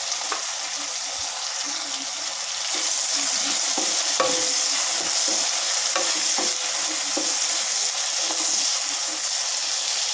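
Eggplant pieces sizzling in hot oil in a nonstick wok while a wooden spatula stirs them, with light scrapes and knocks on the pan. The sizzle gets louder about three seconds in.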